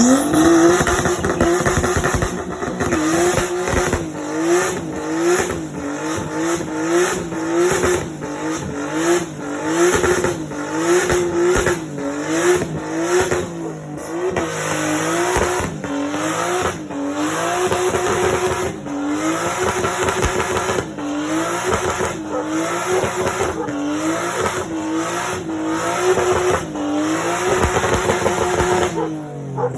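Nissan RB20DET turbocharged straight-six in a C33 Laurel drift car held at high revs in third gear during a burnout, the rear tyres spinning with some squeal. The revs rise and dip repeatedly, about once a second, then fall away near the end as the throttle comes off.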